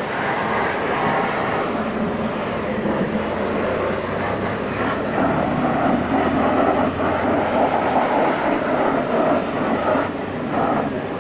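High-pressure washer jet spraying water against a car's muddy underbody: a steady hiss of spray over a low hum, louder from about five seconds in until near the end.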